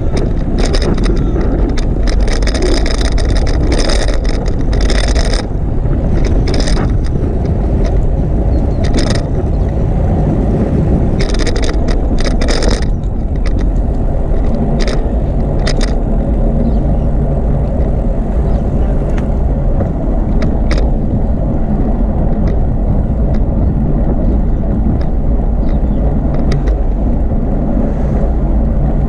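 Wind rumbling on the microphone of a camera riding along on a moving bicycle. Sharp clicks and rattles come thickly through the first half and only now and then after.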